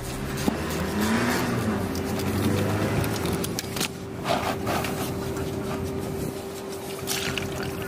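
A car engine running, with a steady hum and scattered clicks and knocks of work on the car.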